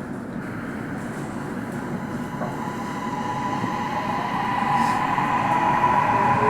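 Inside a subway car: the steady rumble of the running train, and from about halfway in the electric motors' whine rising in pitch and growing louder as the train speeds up.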